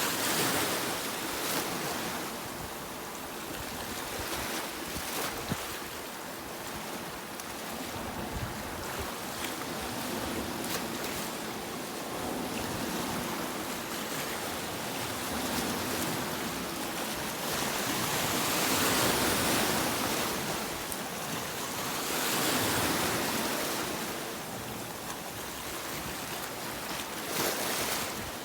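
Sea waves breaking and washing ashore in a continuous rush that rises and falls, with louder surges about two-thirds of the way through and again near the end.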